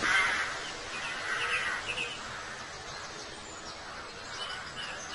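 Small birds chirping outdoors: a run of short, high chirps over a faint steady hiss of wind and ambience.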